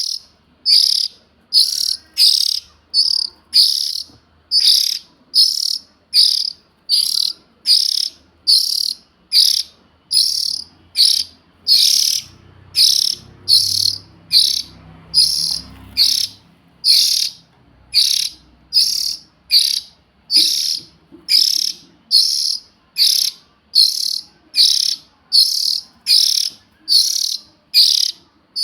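Oriental magpie-robin chick's begging call: a short high-pitched chirp repeated steadily, about three every two seconds.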